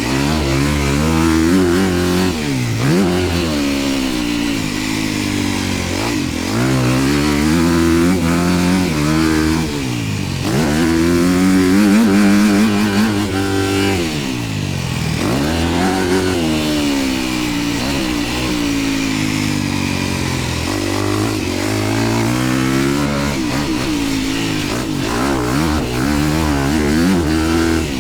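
Dirt bike engine under hard riding, its pitch climbing and dropping every few seconds as the throttle is opened and closed and gears change through the corners of a motocross track, with wind noise over the microphone.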